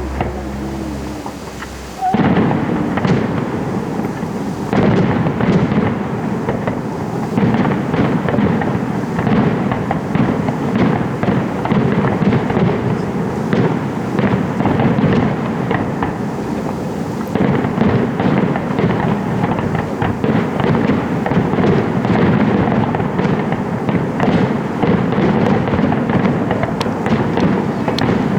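Fireworks barrage: a dense, continuous stream of bangs and crackles that starts suddenly about two seconds in.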